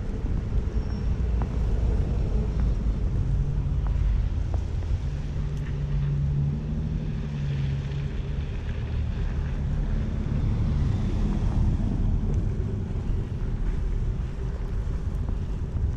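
City street traffic: a vehicle's engine hum swells and fades through the middle, over a steady low rumble of wind on the microphone.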